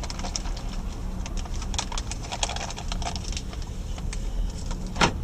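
Jeep Grand Cherokee WK2 driving on a dirt road, heard from inside the cabin: a steady low rumble with light clicks and rattles throughout, and one sharper knock near the end.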